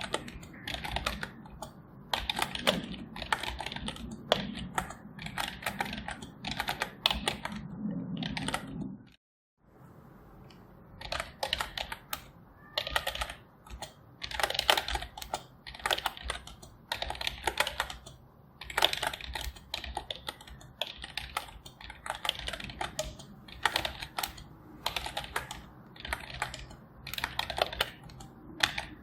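Typing on a computer keyboard: a steady, irregular stream of key clicks. The sound cuts out completely for about half a second about nine seconds in, then the typing starts up again.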